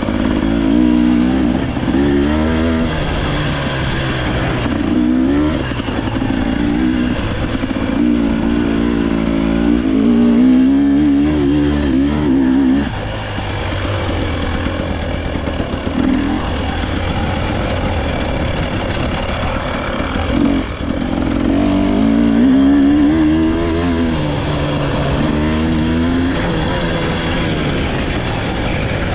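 Dirt bike engine revving up and down repeatedly as it is ridden over the course, its pitch rising and falling every second or two over a steady low rumble.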